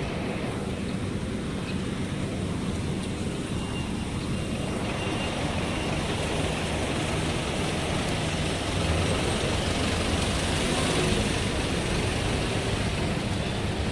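Steady vehicle or road-traffic rumble, a broad noise that grows a little louder about five seconds in.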